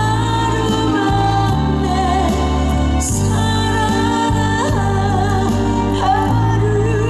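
Live band music: held bass notes that change every second or two under a wavering, vibrato-laden melody line, with no lyrics sung.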